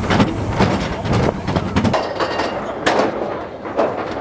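Expedition Everest roller coaster train rattling and clattering along its track, with sharp knocks over a rumbling bed that is heavier for the first two seconds and thins out after.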